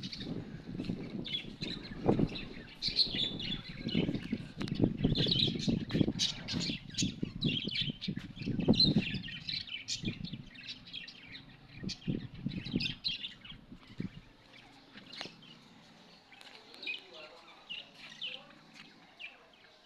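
Small birds chirping repeatedly in short high calls, with irregular low thuds and rumbling during the first two-thirds that fade out about 14 seconds in, leaving only the chirping.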